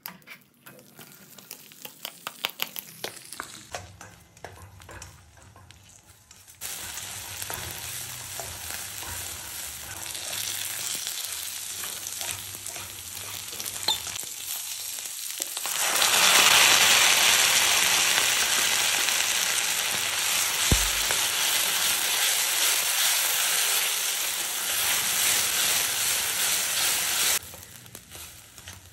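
Sweet corn kernels frying in melted butter in a kadai while a spatula stirs them: clicks and scrapes in the first few seconds, then a steady sizzle. The sizzle jumps louder about halfway through and cuts off abruptly near the end.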